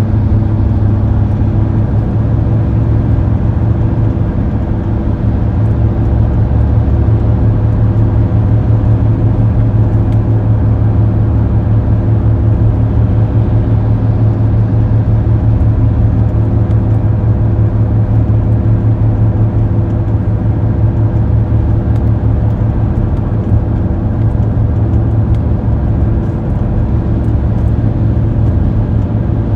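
A car driving steadily at road speed: a constant low drone of engine and road noise that holds its pitch throughout.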